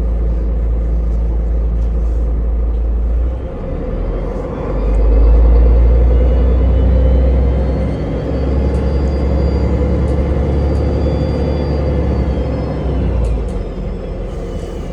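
Ride inside a moving public-transport vehicle: a steady heavy rumble with a high whine that rises and then falls away in the middle, as it speeds up and then slows.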